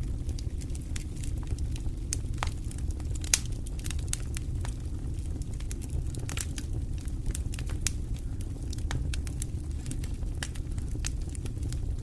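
Wood fire crackling in a fireplace: a steady low rumble of flames with irregular sharp pops and snaps, the strongest a little over three seconds in.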